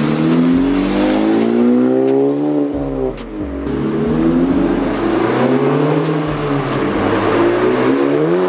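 Honda Civic Type R FK8's turbocharged four-cylinder running through a new valveless AWE aftermarket exhaust, accelerating hard: the engine note climbs steadily, drops at a gear change about three seconds in, climbs again, drops once more about six seconds in, and rises again near the end.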